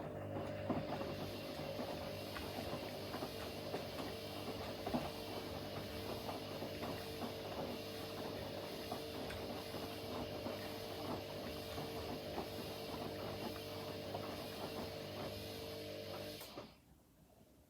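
Front-loading washing machines running a wash: a steady motor hum with many small irregular clicks and knocks of the laundry tumbling in the drum. The sound stops abruptly near the end.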